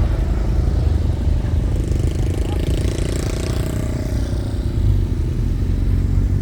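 Motorcycle engines running with a steady low rumble, and one bike's engine swelling and then fading about two to four seconds in.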